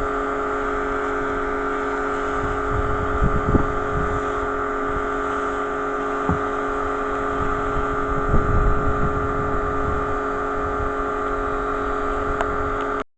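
Pressure washer running steadily with a constant multi-tone hum, with heavier low rumbling surges about three and a half and eight and a half seconds in. The sound cuts off suddenly near the end.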